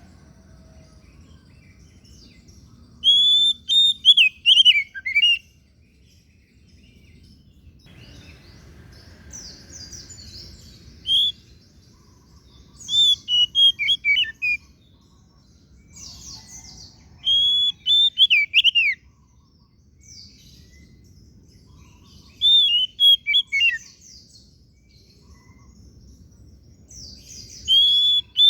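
Oriental magpie-robin (white-breasted 'kacer daput' form) singing: short, loud phrases of quick whistled notes that mostly fall in pitch, each lasting a second or two and coming every few seconds. Softer, higher twittering fills the gaps between phrases.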